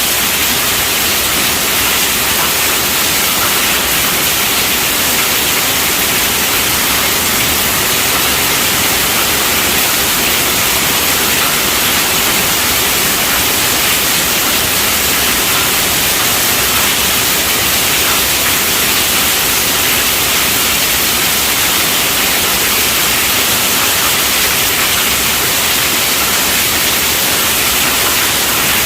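Steady rainfall: an even, unbroken hiss, brighter in the treble than the bass, with no single drops or other sounds standing out.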